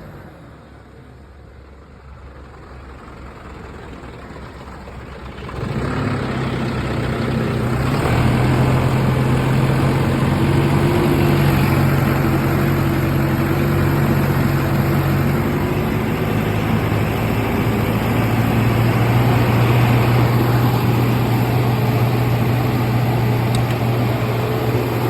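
Heavy diesel engine working in mud: it runs quietly at first, then about five seconds in it jumps to a loud, steady high-rev drone under heavy load, which holds to the end.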